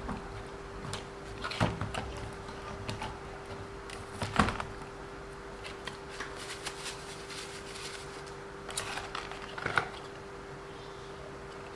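Hands handling small RC car parts and screws: scattered light clicks and clatters, with sharper knocks about four seconds in and near ten seconds, over a steady faint hum.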